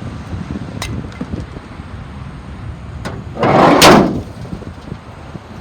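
Steel hood of a 1989 Chevy 3500 truck brought down and slammed shut: a short rush of noise ending in one loud bang about four seconds in, with a couple of light clicks before it.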